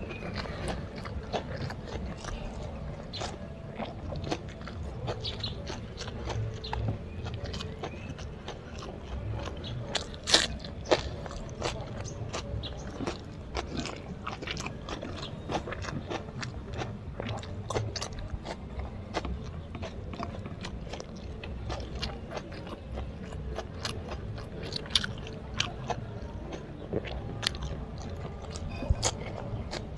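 Close-up chewing and crunching of mouthfuls of fried rice eaten by hand, with fingers scraping up rice from a ceramic plate. There are many small sharp clicks throughout, and the sharpest comes about ten seconds in.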